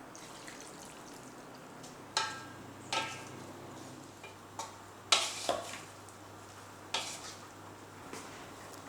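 Food being stirred in a pan, a utensil clinking against the pan about six times with a short ring, over a faint steady sizzle.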